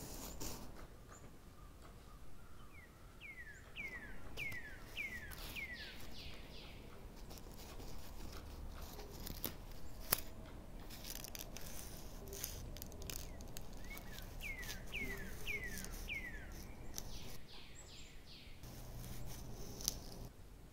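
Bird calling over faint outdoor background noise: two runs of five or six quick falling whistles, about two a second, the first a few seconds in and the second near the middle-end. Scattered sharp clicks, the loudest about halfway through and near the end.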